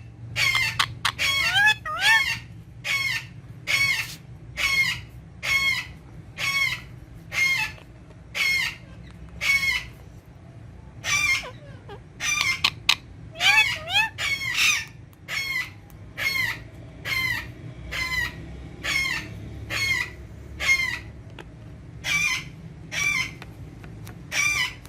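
Green ringneck parakeet calling: a long run of short, shrill calls about one every three-quarters of a second, with a faster jumble of calls around the middle.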